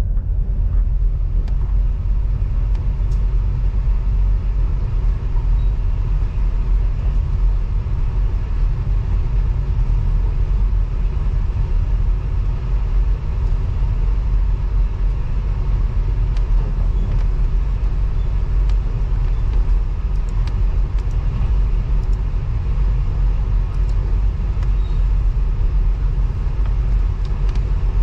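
The Overland passenger train running along the track, heard from inside a carriage as a steady low rumble with a few faint clicks.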